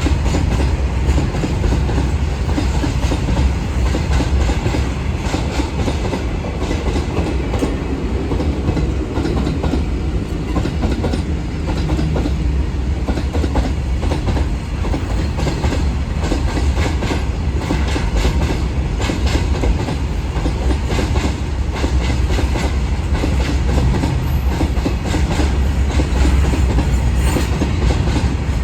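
Long freight train of goods wagons rolling past: a continuous loud rumble with the irregular clickety-clack of wheels over rail joints.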